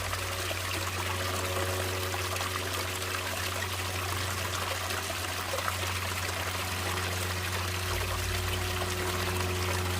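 Natural running water, flowing and trickling steadily in an even rush with no breaks.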